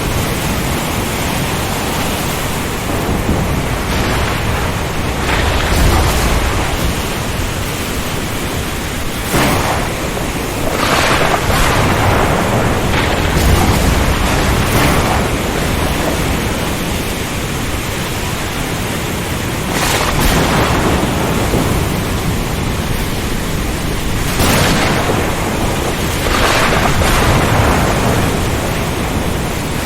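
Storm at sea: a steady rush of wind and rain with waves surging and breaking again and again, a swell every few seconds.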